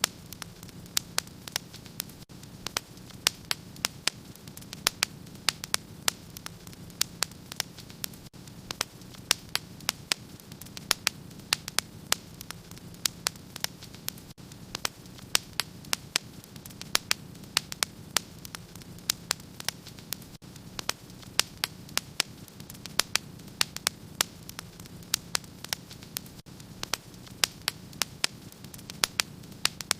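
Wood fire in a fireplace crackling: many sharp, irregular pops and snaps, several a second, over a steady low hiss of burning.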